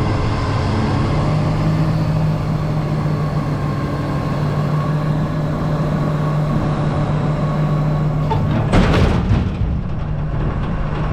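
Diesel engine of heavy tree-work equipment running steadily, with a brief loud noisy sound about nine seconds in.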